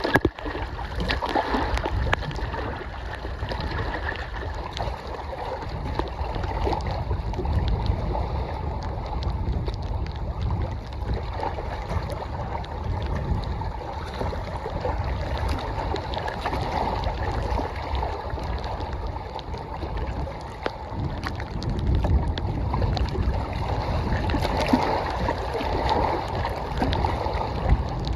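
Lake water lapping and sloshing against the shore in strong wind, with wind buffeting the microphone as a steady low rumble.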